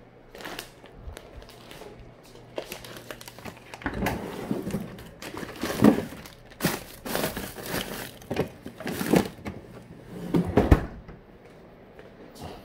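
Kitchen handling noises during breakfast preparation: irregular crinkling of packaging and light clatter and knocks, busiest in the middle and second half. A steady low hum runs underneath.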